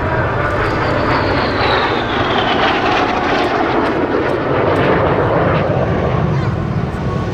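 Jet noise from Saudi Hawks BAE Hawk T.65A jet trainers flying past, a loud steady rush with a high engine whine that falls in pitch during the first few seconds as they pass.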